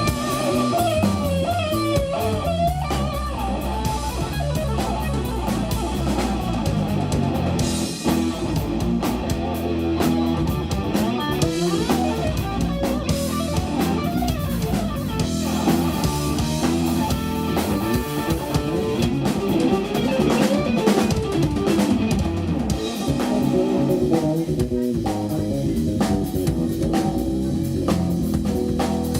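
Live instrumental jazz-rock from a band: electric guitar playing a lead line with bent notes over bass and a drum kit.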